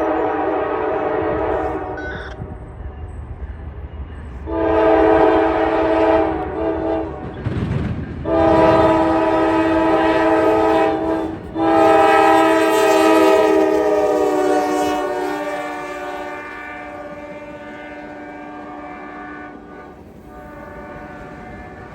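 Norfolk Southern diesel locomotive sounding its multi-chime air horn in four long blasts as the train approaches and passes. The last blast sags slightly in pitch and fades. The passing train rumbles on after it.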